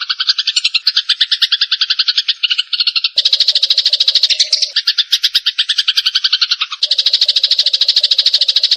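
Eurasian tree sparrows' fighting chatter: a loud, rapid, unbroken run of harsh chirps, about a dozen a second. It starts abruptly, and its pattern changes at about three and seven seconds in.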